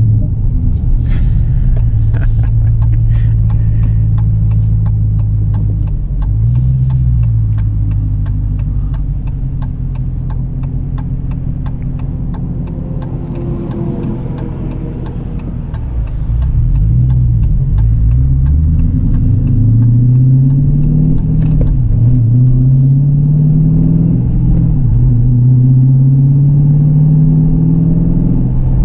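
Dodge Challenger Scat Pack's 6.4-litre Hemi V8 through a muffler-delete exhaust (straight pipes where the mufflers were, resonators kept), pulling hard up a freeway on-ramp. About 16 seconds in it gets louder, and the revs climb three times, dropping back at each gear change. A steady ticking, like a turn signal, runs through the first two-thirds.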